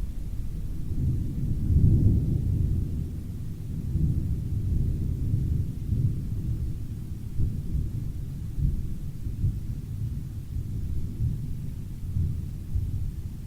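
Thunder rumbling, deep and rolling, swelling loudest about two seconds in and rolling on in waves, muffled as if heard from inside an RV.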